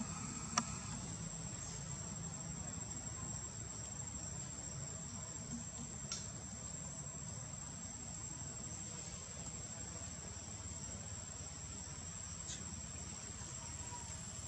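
An insect singing in one steady, unbroken high tone, over a low rumble, with a sharp click about half a second in.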